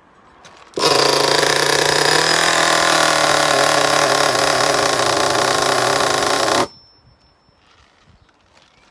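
O.S. Max 30VG nitro engine, new and being broken in, running loud and buzzy at a steady speed. It comes in abruptly about a second in and stops just as abruptly about two seconds before the end.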